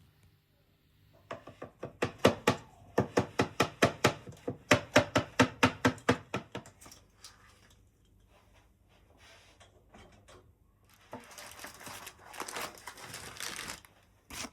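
Knife chopping quickly on a cutting board, a fast even run of about five knocks a second lasting several seconds. A few seconds of noisy rubbing or scraping follows near the end.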